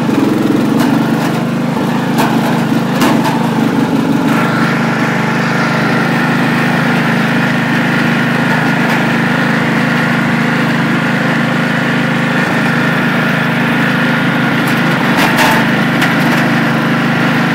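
The 1985 Craftsman II lawn tractor's 11-horsepower engine running steadily, its note shifting slightly about four seconds in. A few sharp clicks or knocks are heard over it.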